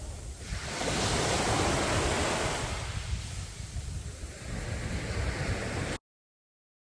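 Sea waves breaking and washing up a beach, with wind on the microphone: one wave surges about a second in and falls away a couple of seconds later. Near the end the sound cuts out completely for almost a second.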